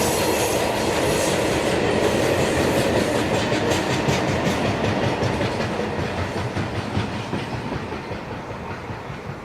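A train rolling past, its wagons' wheels clicking rhythmically over the rail joints, the sound fading steadily through the second half as the train moves away.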